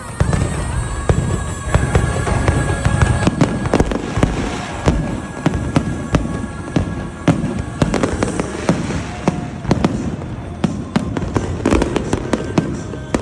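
Fireworks going off in quick succession: deep booms mixed with many sharp cracks and crackling bursts.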